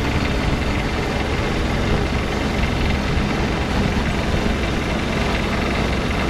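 Small diesel engine of a diesel-swapped Power Wheels ride-on truck running steadily as the truck drives off on its first test run.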